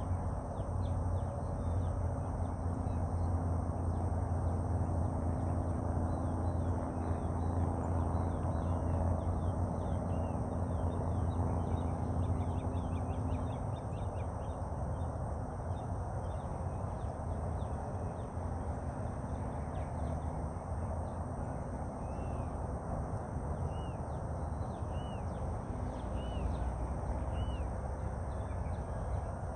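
Outdoor ambience of birds calling: many short chirps through the first half, then single arched calls repeating about once a second. Under them runs a steady low hum, with a higher drone that stops about halfway.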